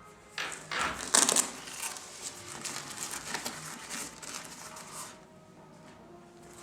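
Rustling and crinkling handling noises from a fabric pet carrier bag being moved and manipulated. The noises are loudest about a second in and die away after about five seconds.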